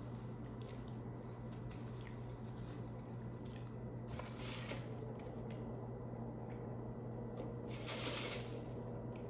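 Close-miked eating mouth sounds: soft chewing and squishing with faint clicks, and two short hissy bursts, one about four seconds in and one near the end, over a steady low hum.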